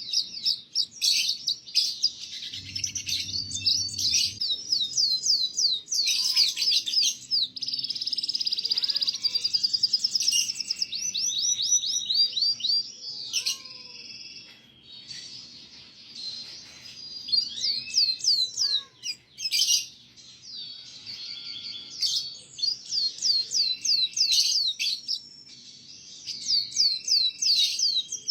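Domestic canary singing a long song of fast trills and rolling phrases, one after another, with a few short breaks.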